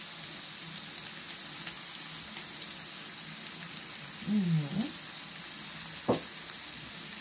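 Diced pork and onion frying in a pan: a steady sizzle with scattered small pops. A single sharp knock comes about six seconds in.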